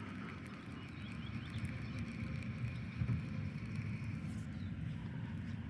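Faint outdoor background: an uneven low rumble, a faint steady high hum that fades about four seconds in, and a few brief high chirps.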